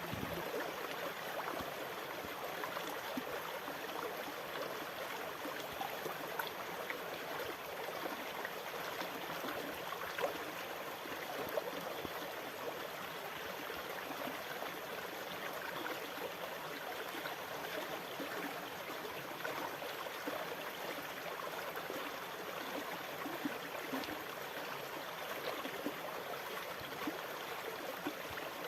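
Sea water making a steady rushing, fizzing sound with many small crackles and gurgles, at an even level without clear wave swells.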